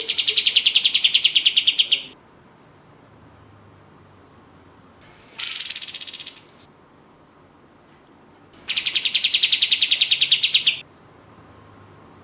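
Olive-winged bulbul (kapas tembak) giving three rapid, pulsed rattling calls: a long one at the start, a short one about five seconds in, and another long one near nine seconds. The first and last drop in pitch as they begin.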